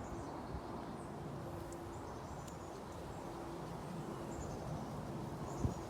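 Faint, short high bird chirps over a steady low background hum, with a soft knock right at the end.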